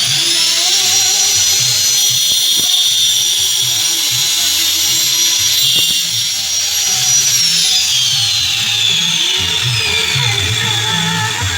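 Electric power tool motor running at a high, steady whine, then winding down gradually over about three seconds from roughly three quarters of the way through, after being switched off. Background music plays underneath.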